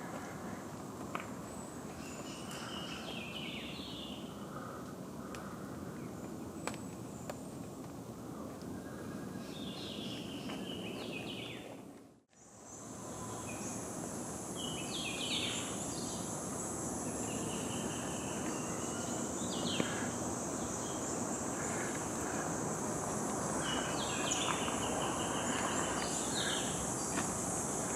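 Tropical forest ambience: birds give short repeated calls over a steady background hiss. The sound drops out briefly about halfway through. After that, a steady high-pitched insect drone joins the bird calls.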